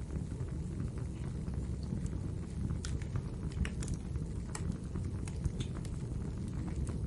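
Wood fire burning in a fireplace: a steady low rumble of the flames with irregular sharp crackles and pops, most frequent about halfway through.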